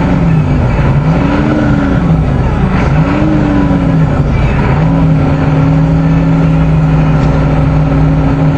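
A cold 6.9L International V8 diesel is blipped up and down three times, then holds a steady fast idle from about halfway through. It runs clattery because the cold-start timing advance is stuck on, and the engine-driven cooling fan is still locked up by a stuck fan clutch.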